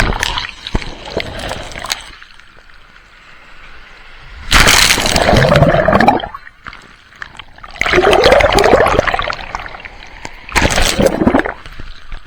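Sea waves breaking and washing up the shore in four surges, the loudest about a third of the way in and again just past halfway, with quieter spells between.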